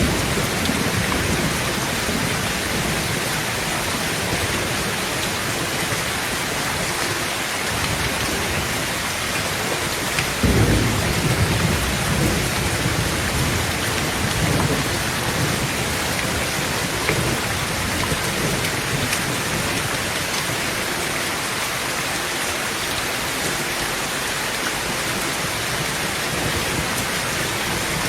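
Heavy rain drumming steadily on a tin tent roof, with low rolls of thunder rumbling, strongest about ten seconds in and again a few seconds later.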